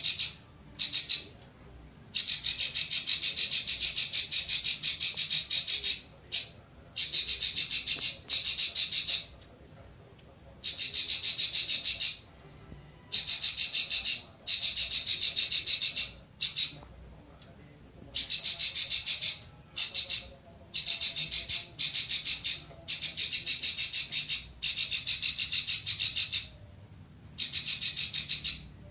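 Songbird known to Indonesian bird keepers as 'klik-klik' singing long, rapid runs of high clicking notes, each run lasting one to four seconds with short pauses between.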